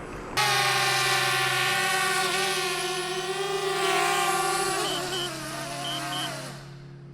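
Quadcopter camera drone flying close by: a multi-pitched propeller whine that starts suddenly, drifts in pitch as the motors change speed about five seconds in, and drops in level near the end as it moves away.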